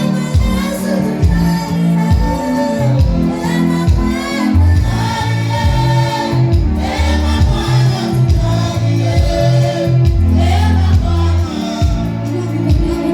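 Live gospel worship music: voices singing over a band with a heavy bass line and a steady drum beat.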